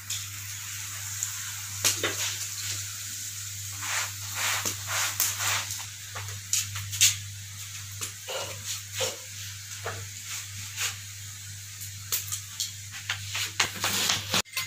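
Paratha sizzling on a flat iron tawa over glowing embers, with scattered small crackles and pops over a steady low hum.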